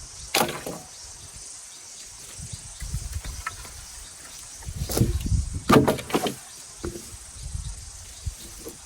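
A broom sweeping the ground: a few scraping swishes, one soon after the start and a cluster of strokes around five to seven seconds in, over a low rumble.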